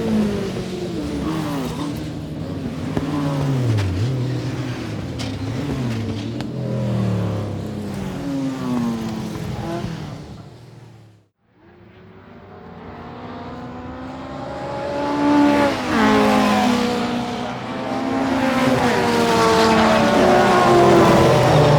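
Racing car engines, their pitch climbing and dropping through gear changes, fading out about eleven seconds in. After a brief silence another racing engine fades in and builds, rising in pitch.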